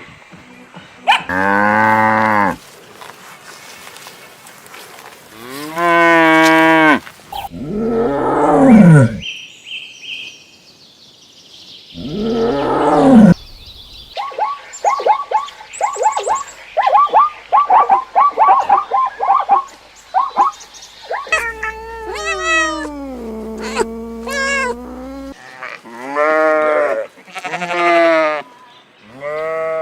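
Farm animals calling in a string of cut-together clips: several long pitched calls, one falling in pitch, and in the middle a fast run of short repeated calls.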